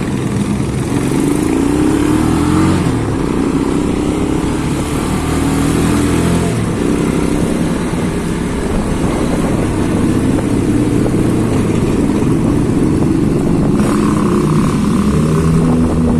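Several large-displacement motorcycles running and revving inside a road tunnel, their engine notes overlapping and rising and falling in pitch, with the sound echoing off the tunnel walls.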